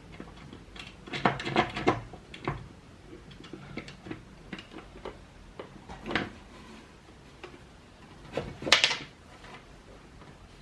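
Scattered clicks and clinks of skateboard truck hardware being handled as the truck's mounting bolts and nuts are fitted. There is a cluster of clicks between one and two seconds in, and the loudest, a short clatter, comes near the end.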